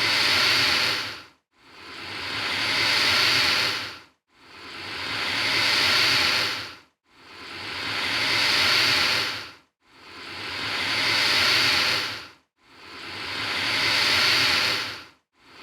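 Alligator hissing in a repeated pattern: one long hiss about every three seconds, each swelling in loudness and then cutting off abruptly, the same hiss over and over.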